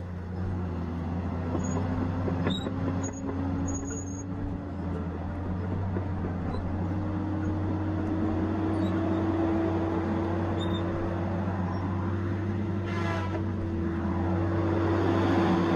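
Tigercat 870C feller buncher running steadily, its engine and hydraulics humming, with a tone that climbs slowly in pitch through the middle and a short higher-pitched burst about thirteen seconds in.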